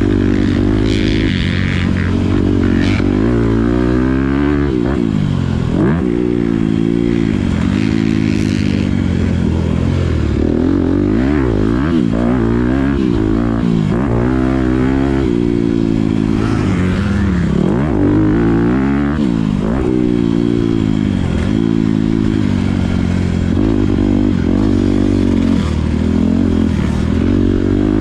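Honda CRF250R four-stroke single-cylinder motocross engine under hard riding, its pitch repeatedly climbing under throttle and dropping as it is rolled off or shifted, heard from a helmet-mounted camera.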